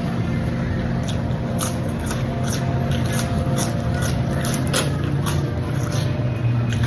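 Irregular short wet clicks and squelches from the khanom jeen noodle salad being handled close to the microphone, over a steady low hum.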